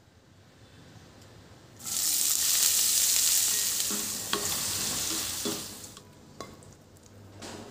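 Food frying in hot oil in a pan: a loud sizzle sets in about two seconds in and fades after about six seconds, with a few sharp clicks of a utensil against the pan.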